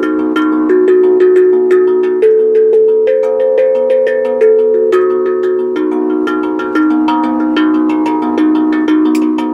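Tuned percussion struck in a steady run of ringing notes, several strikes a second, each note sustaining and overlapping the next to form a repeating melody.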